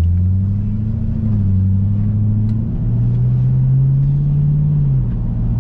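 Chevrolet Camaro V8 engine running at moderate revs on track, heard from inside the cabin. Its note rises about halfway through and eases back near the end.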